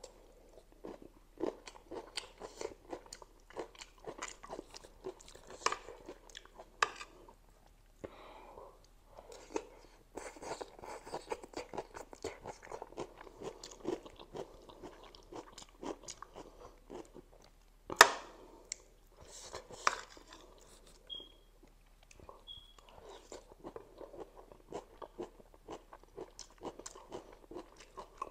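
Close-miked chewing of spicy instant noodles and chili momo, with many small clicks and one sharp, much louder click about two-thirds of the way through.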